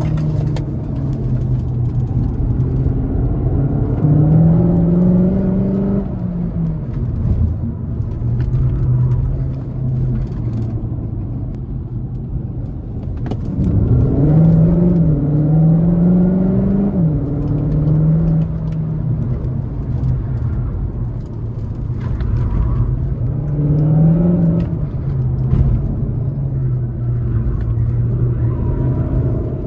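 Cupra Formentor VZ e-Hybrid 245's turbocharged four-cylinder petrol engine under hard driving, its note climbing through several accelerations and dropping back each time as it shifts or lifts off. The biggest pull is in the middle of the stretch, with shorter ones near the start and about two-thirds of the way through.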